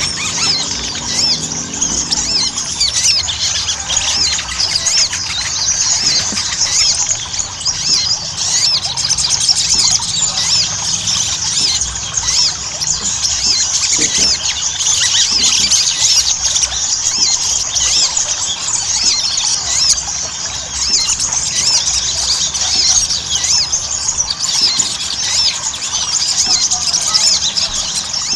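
Sogon (little spiderhunter) singing vigorously in full song: a dense, continuous stream of rapid, high-pitched squeaky chirps and trills.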